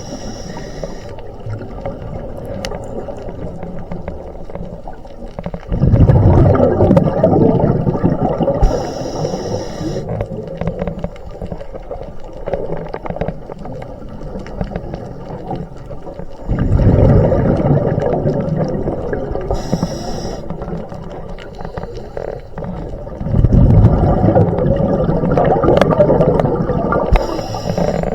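Scuba diver breathing through a regulator underwater: three long exhalations of rumbling bubbles, roughly eight seconds apart, each ending with a short high hiss from the regulator.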